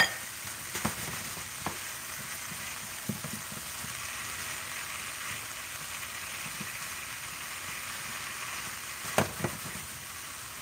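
Saltfish, shrimp and okra with broccoli sizzling steadily in an oiled nonstick frying pan as a silicone spatula stirs them, with a few light taps of the spatula and a sharper double knock on the pan about nine seconds in.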